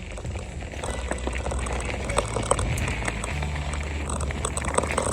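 Mountain bike riding noise: tyres rolling along the trail under a steady low rumble, with scattered clicks and rattles from the bike.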